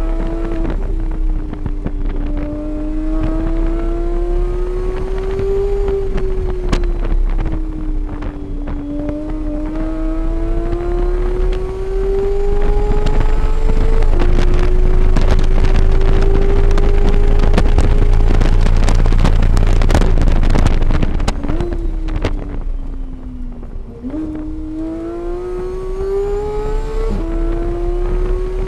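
Car engine lapping a race track, its pitch climbing steadily under acceleration and dropping sharply at each upshift, about a second in, midway and near the end. It falls away through a slowdown a little after the middle. A loud rushing noise runs through the middle stretch while the car is at speed.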